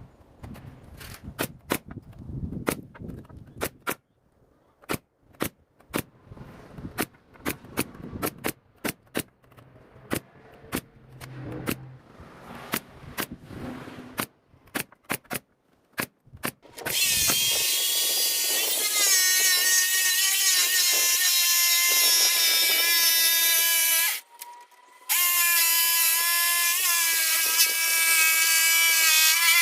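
Scattered sharp taps and clicks, then a power tool starts running loudly and steadily, with a high whine over a hiss. It stops for about a second and starts again.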